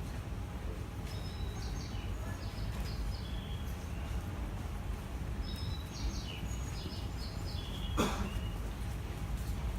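Bird chirping in two short bursts of high, quick chirps a few seconds apart, over a steady low rumble of background noise. A single sharp knock sounds about 8 seconds in.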